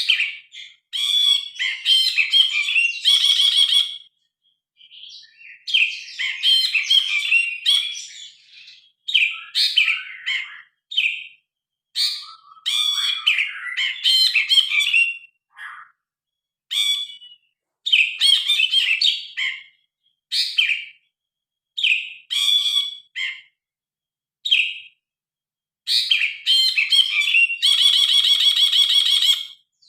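Brinji kelabu (cinereous bulbul) singing loud, varied phrases of chirps and whistled notes in bursts with short pauses between them. A fast, buzzy rattle comes about three seconds in and again near the end.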